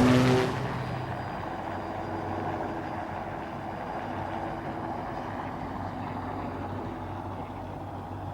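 A loud sound with a held tone cuts off about half a second in. It gives way to a steady low engine hum over a wash of background noise.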